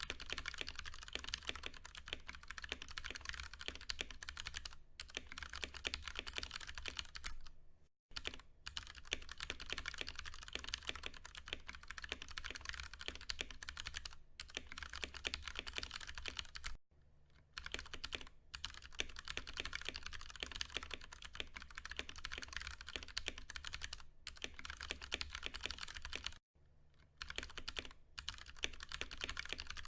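Continuous fast typing on a Ducky One 2 Mini mechanical keyboard with tactile Cherry MX Brown switches: a rapid run of key clacks, broken by short pauses about every eight or nine seconds.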